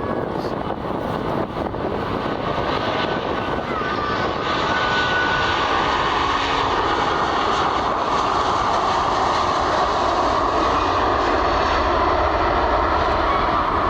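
Airliner engines passing close by, growing louder over the first several seconds and then holding steady.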